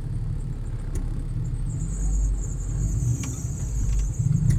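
Car running on the road, heard from inside the cabin as a steady low rumble. A steady high buzz joins about two seconds in, and a low wavering hum rises near the end.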